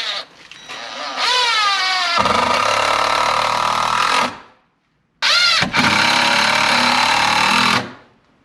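Power screwdriver driving screws into wood: the motor whines up in pitch as the trigger is pulled, then settles into a heavier, steady running while the screw is driven home. This happens twice, each run about three seconds long.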